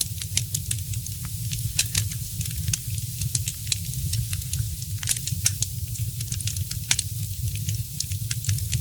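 Wood fire crackling, with many small irregular pops and snaps, several sharper ones standing out, over a steady low rumble.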